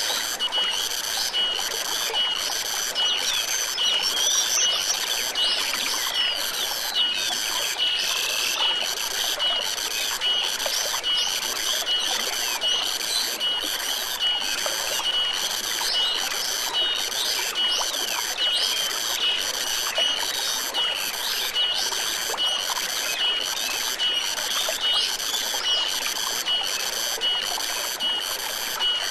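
Forest stream trickling, under a high, evenly pulsing chirp and scattered gliding bird calls, the calls mostly in the first third.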